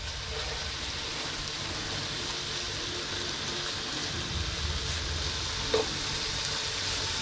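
Chicken strips sizzling steadily as they fry in a hot pan.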